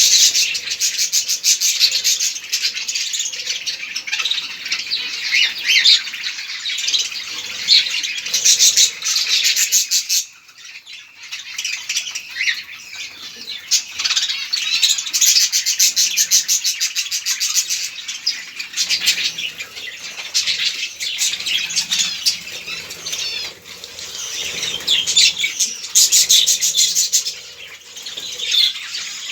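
A flock of budgerigars chattering and chirping continuously in an aviary, with wings fluttering among the calls.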